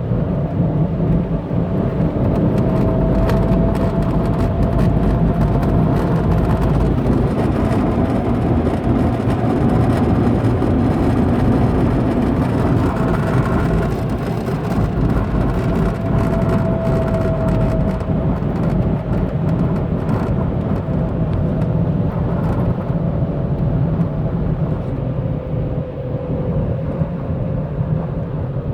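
Howling whine from a 2007 Saturn Vue's rear differential, heard over steady road rumble as the vehicle drives. The whine wavers slightly in pitch and eases a little near the end. The owner suspects bad differential fluid as the cause.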